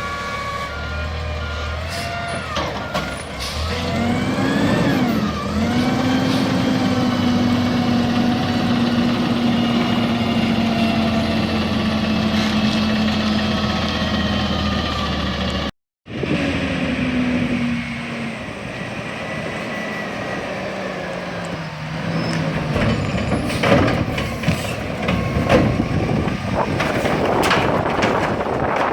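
Diesel garbage truck engine revving up about four seconds in and holding at high speed for roughly ten seconds, the way it runs to power the hydraulic packer. A reverse alarm beeps at the start. After a sudden cut, a truck engine drops back toward idle, and loud clanks and bangs of collection work come near the end.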